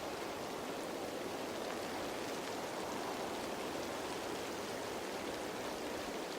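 Rain falling steadily on leaves: an even hiss of many drops.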